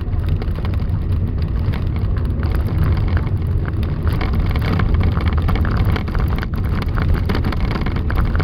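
Blizzard wind: a loud, steady low rumble with a dense patter of small ticks, like wind-driven snow striking.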